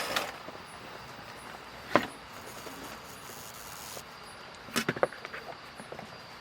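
A sharp knock about two seconds in, then a quick run of clicks and taps, over a steady faint hiss.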